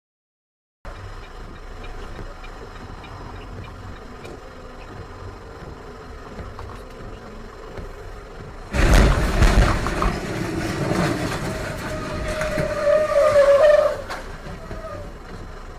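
Car road noise heard from a dashcam inside the car. About nine seconds in it gives way to a sudden loud, noisy commotion lasting about five seconds, with a wavering squeal near its end.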